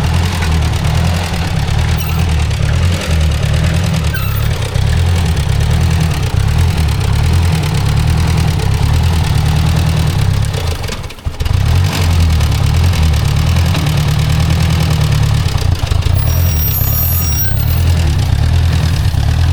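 Ford Jubilee tractor's four-cylinder gasoline engine running steadily, with a brief dip in level about halfway through.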